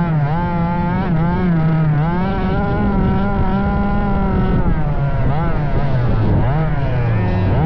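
Small two-stroke petrol engine of a 1/5-scale Rovan 5B RC buggy revving up and down again and again as the throttle is worked, its pitch held high for a stretch in the middle.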